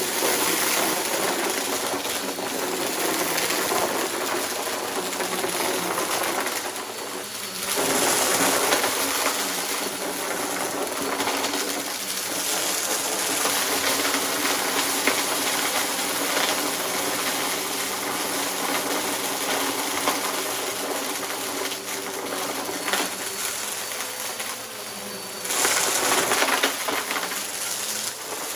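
Bissell upright vacuum running over rugs: a steady motor hum with several fixed tones, with a crackle of small ticks as debris rattles up into it. The sound dips briefly about seven seconds in and again near the end, then comes back louder.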